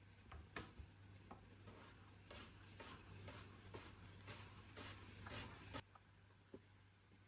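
Faint, brisk scraping strokes, about two a second, for about four seconds and then stopping, over a low steady hum.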